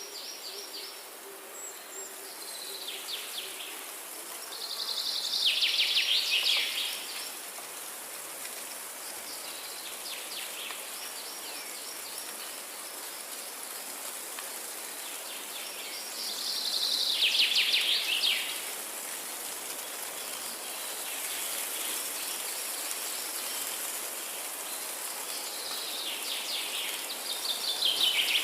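Forest ambience: a songbird sings short, fast trills of rapidly repeated notes, loudest about every ten seconds with fainter ones between, over a steady high hiss.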